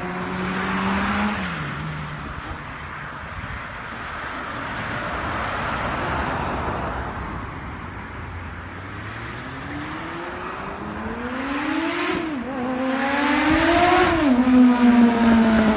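Kawasaki ZR-7's air-cooled inline-four motorcycle engine accelerating through the gears: the pitch climbs and drops at a shift about a second in, then the sound fades into a distant hum. It comes back louder, climbing through two more shifts, and is loudest near the end, where the pitch falls.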